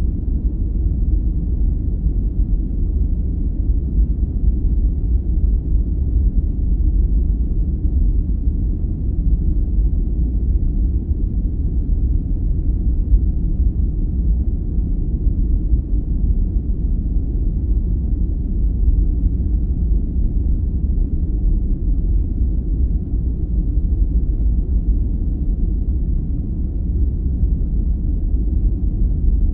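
Steady, deep, muffled rumbling noise from a continuous sleep-aid noise track, even and unchanging, with almost no hiss in the highs.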